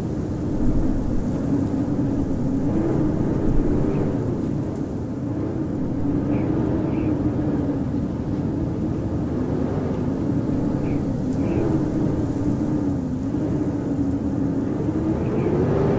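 Howling blizzard wind: a steady rushing roar with a howl that wavers up and down in pitch.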